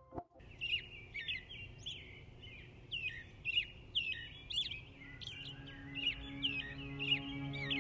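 Birds chirping: a rapid series of short, sharp chirps, a few a second. Soft, low sustained music tones come in about five seconds in.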